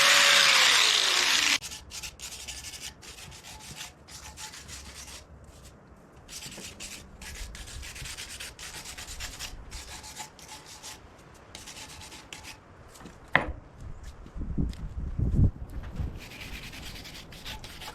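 Power wire wheel scouring old paint and rust off cast-iron tractor front weights, a loud steady grinding that stops abruptly about a second and a half in. After that comes quieter, irregular scraping and rubbing on the metal, with a few knocks near the end.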